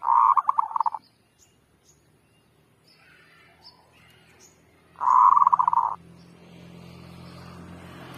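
Zebra dove (merbuk) cooing twice, each call a rapid stuttering trill of about a second, the two about five seconds apart. A low engine-like hum runs underneath from about two seconds in and grows louder after the second call.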